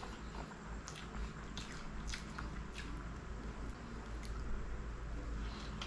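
A person chewing a mouthful of chicken and dosa, with irregular wet smacking clicks from the mouth.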